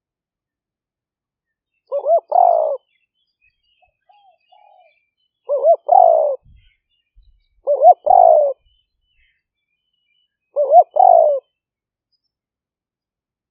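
Spotted dove cooing: four phrases a few seconds apart, each made of two quick short notes and then a longer coo, with one faint, softer call between the first two phrases. This is a caged decoy dove's call, of the kind used to lure wild doves.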